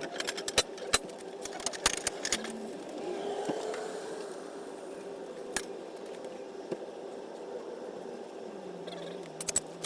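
A quick run of sharp clicks and clinks, with a couple of single clicks later, over a steady low hum.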